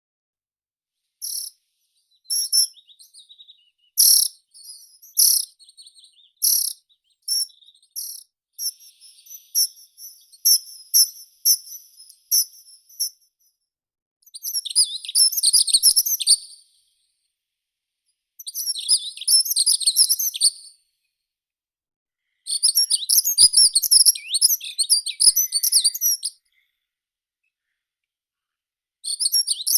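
Meadow songbirds singing high and clear: a run of separate sharp chirps, roughly one a second and then quicker, followed by three rapid twittering phrases of two to four seconds each with pauses between, and another phrase starting near the end.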